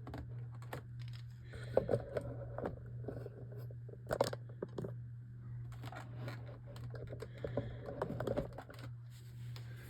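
Handling noise of small hard objects being picked up, moved and set down: scattered clicks, taps and scrapes, the sharpest near 2 and 4 seconds in, over a steady low hum.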